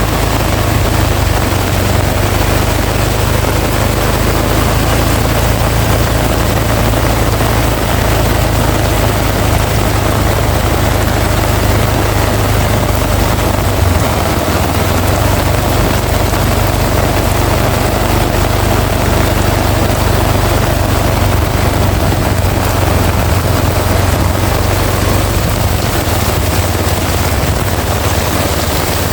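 Heavy rain pouring steadily, with a strong, constant low rumble underneath.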